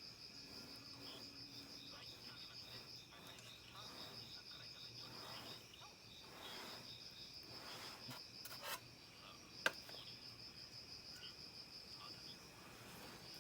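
Insects chirring in a fast, steady pulsing trill, which breaks off briefly about four seconds in. A single sharp click comes about two-thirds of the way through.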